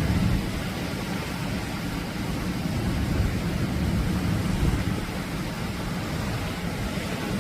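Atlantic surf washing onto a beach: a steady, unbroken roar of noise, strongest in the low end.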